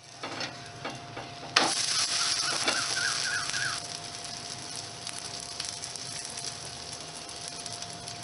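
Puran poli frying in ghee on a hot tawa, sizzling. A sharp tap about one and a half seconds in as it is flipped with a spatula, then a louder sizzle that settles after a couple of seconds to a steady, lower sizzle.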